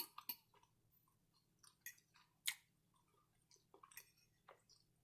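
Quiet close-miked chewing: short, wet mouth clicks and smacks at irregular intervals, the loudest about two and a half seconds in.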